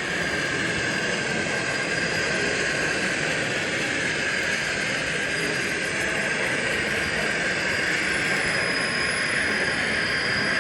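Steady, even background noise of a large exhibition hall, with no single event standing out.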